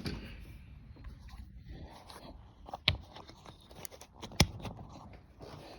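Light scraping and a few sharp clicks of small metal parts being handled, the loudest about three seconds in and again near four and a half seconds, as the carburetor linkage is worked loose on a mower engine.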